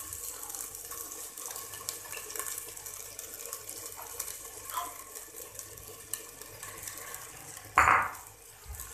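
Quiet, steady sizzling hiss with faint crackles from a clay handi where green chickpeas have just gone in on top of frying potatoes, tomatoes and masala. Near the end comes one short knock, louder than the rest.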